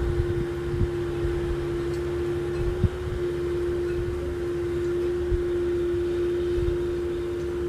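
A steady mechanical hum holding one constant tone, over a low uneven rumble.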